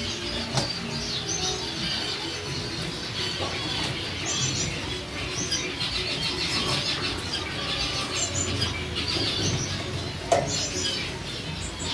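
Many caged canaries chirping and twittering at once, a constant overlapping chatter of short high calls. There is a single sharp knock about ten seconds in.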